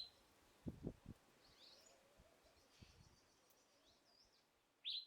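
Faint outdoor ambience with a few brief high bird chirps that sweep in pitch, and two or three low dull knocks about a second in.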